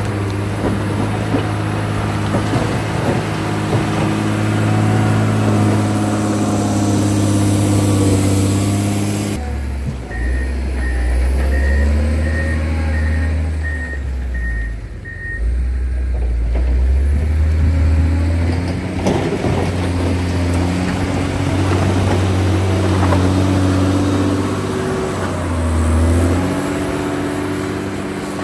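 John Deere 670 motor grader's diesel engine running steadily. About ten seconds in, the engine note suddenly drops lower and a reversing alarm beeps about nine times, evenly spaced over some five seconds; a few seconds later the higher engine note returns.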